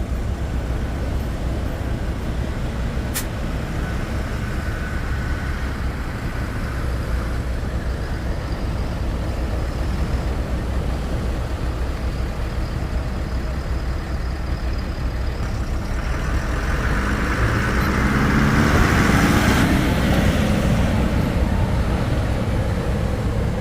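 Launch tractor's engine working as it pushes a ski-boat on its trailer into the surf, over steady wind and wave noise. The engine and the rush of water grow louder about two-thirds of the way through, then ease slightly.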